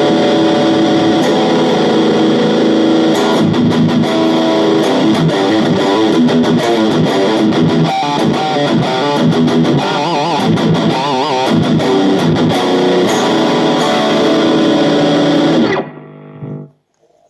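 AIERSI ST11 HSS electric guitar played through an amplifier with effects, a run of sustained notes with wavering, vibrato-like bends partway through, cutting off about a second before the end and ringing out briefly.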